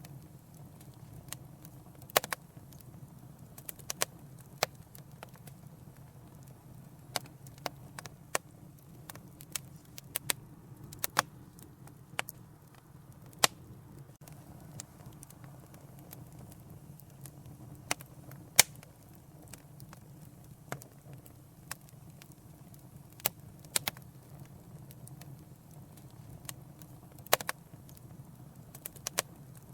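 Wood fire crackling in a fireplace: irregular sharp pops and snaps, a few noticeably louder, over a steady low rumble of burning.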